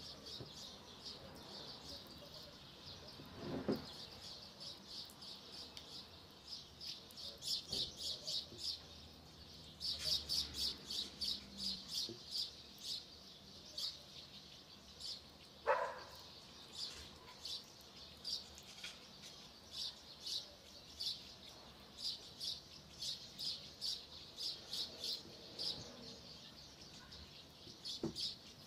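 A small bird chirping in quick repeated runs of high, short notes, several a second, with a couple of brief knocks, the loudest about two-thirds of the way through.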